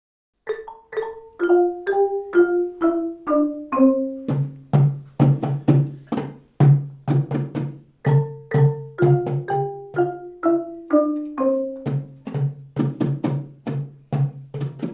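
Music on tuned mallet percussion such as marimba or xylophone: struck notes about two a second in phrases that step down in pitch. A low repeated note joins about four seconds in and drops out briefly around eight seconds, when the falling phrase starts again.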